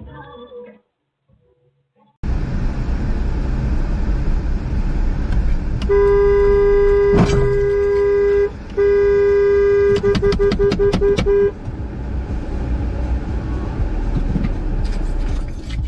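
Car horn blaring in a long blast, then a second long blast that breaks into a quick run of about six short honks, over steady road and engine noise. A sharp knock sounds partway through the first blast.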